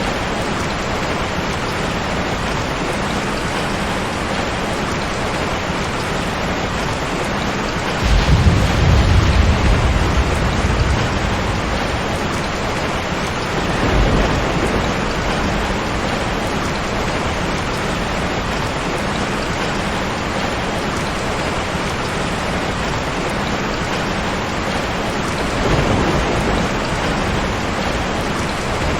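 Steady rain falling, with thunder rumbling: a loud low rumble about eight seconds in that lasts a few seconds, and two weaker rumbles, one near the middle and one near the end.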